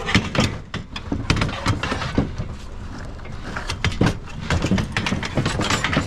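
Metal patio chairs knocking and clattering against each other and the load as they are shifted and stacked, a run of irregular knocks and rattles.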